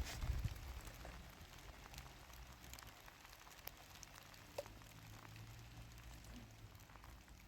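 Rain falling steadily, faint, with scattered light drip-like ticks over a low rumble that is strongest in the first half second.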